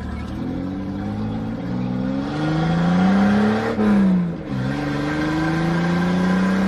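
Straight-piped Toyota Land Cruiser FJ73 exhaust, loud, pulling away under acceleration. The engine note climbs, drops sharply about four seconds in as at a gear change, then climbs again and holds steady.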